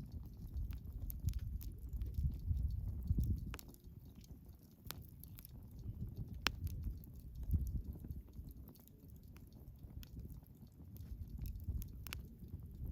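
Wood campfire burning: scattered sharp crackles and pops over a low, uneven rumble.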